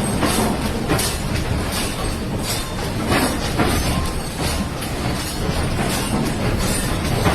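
An apartment building shaking: a continuous heavy rumble with household things rattling and knocking throughout.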